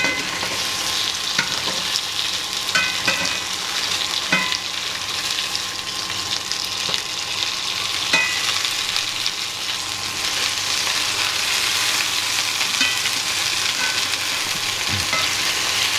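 Chicken thighs frying in hot cooking fat in a pan, a steady sizzle with spitting, broken by a few short taps.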